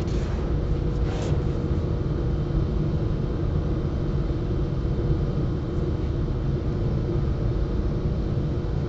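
Steady low background rumble with a faint even hum, and a light click about a second in.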